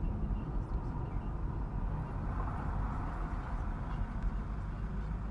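Steady low rumble of a car driving: engine and road noise, with a faint hiss that swells slightly partway through.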